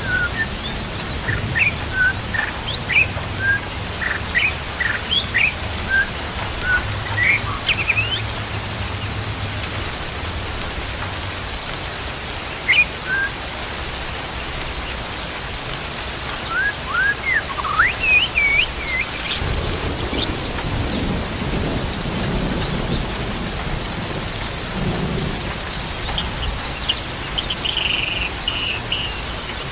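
Small birds chirping in short, scattered notes over steady rain, with low rumbles of distant thunder near the start and again about twenty seconds in.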